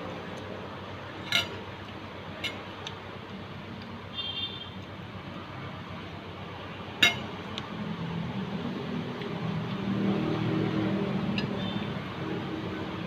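Three sharp clinks of an eating utensil against a dish, with a brief high ring after them, over a steady background hiss. From about eight seconds in, a motor vehicle's engine hum swells.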